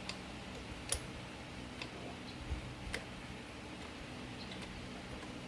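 A few light, sharp clicks about a second apart over a steady low hum.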